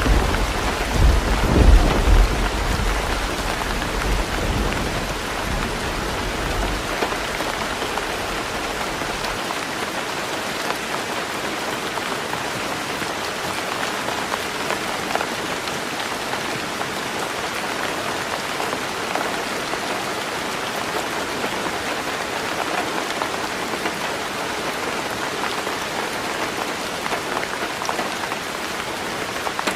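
Heavy rain falling on a tin roof, an even, steady patter. A low thunder rumble fills the first few seconds, with a couple of louder swells, and dies away by about a quarter of the way in.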